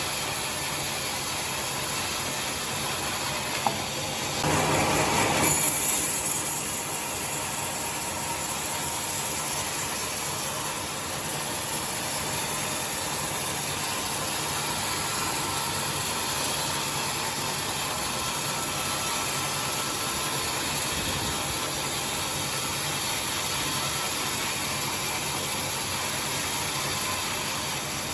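Sawmill saw running steadily while ripping timber into boards, with a sharp click about four seconds in and a louder stretch for the next two seconds.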